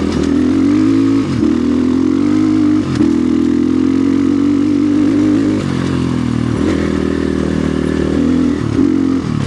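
2025 Orion RXB250XL 250 cc dirt bike engine running hard on a trail climb, its pitch dropping and picking back up several times as the throttle is rolled off and on.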